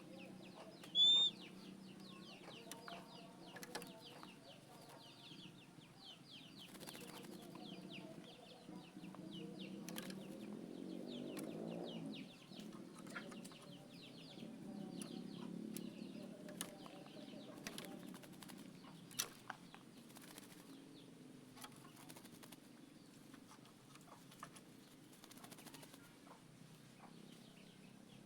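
Oriental magpie-robin (kacer) in its cage: one short, clear whistle about a second in, then wing flutters with scattered light clicks over a low steady hum.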